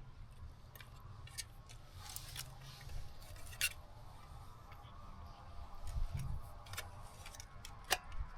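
Someone eating a bacon sandwich close to the microphone: chewing with scattered small clicks and crunches over a low rumble.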